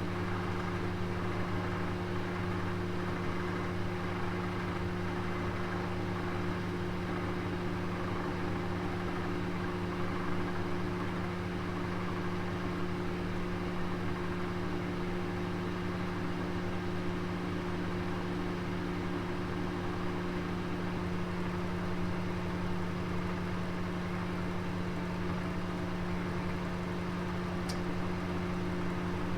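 Oven running with a roast cooking inside: a steady low hum with a whirring hiss over it, with one brief tick near the end.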